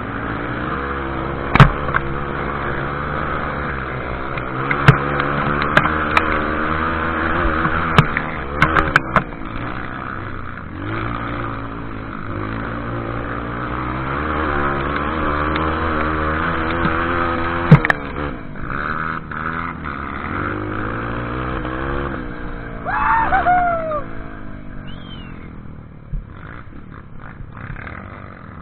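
Off-road vehicle engine running, its pitch rising and falling repeatedly with the throttle, with several sharp knocks along the way.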